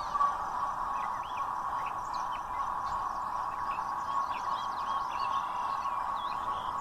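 Small birds chirping in many short, quick up-and-down calls over a steady mid-pitched hum.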